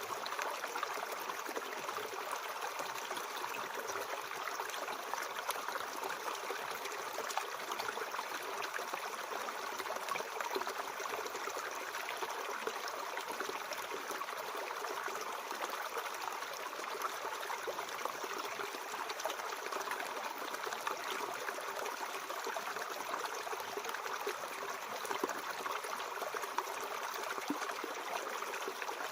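Mountain stream flowing: a steady, even rush and trickle of water that does not change, with little deep rumble.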